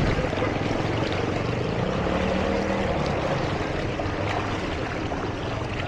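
A vehicle engine running steadily under a constant rush of splashing water, as when a vehicle moves through floodwater.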